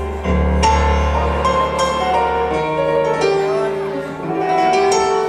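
Instrumental passage of a song led by piano, with sustained accompanying notes. A deep bass note sounds through the first half.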